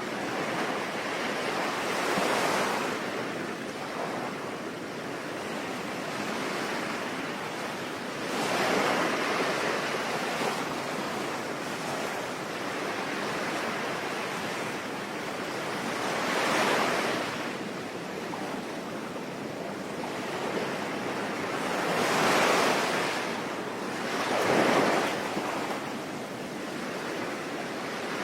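Sea waves breaking on a shore over a steady background wash, likely with rain mixed in. About five louder surges swell and fade at irregular intervals of a few seconds.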